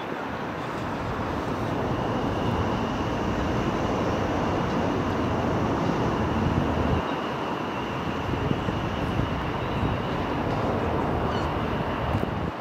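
Electric multiple-unit train running on the main line, a steady rumble with a faint high whine running through it.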